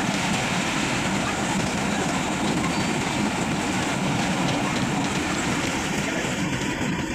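Passenger train running along the line: a steady rumble and rattle of the carriage and wheels on the rails, its hiss thinning a little near the end.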